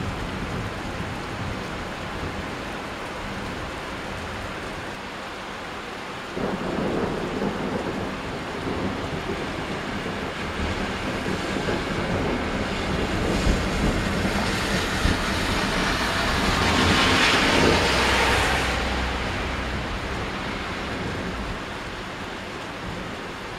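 Thunder rolling during a rainstorm, with rain falling throughout. A new rumble begins suddenly about six seconds in, grows to its loudest about two-thirds of the way through, and dies away near the end.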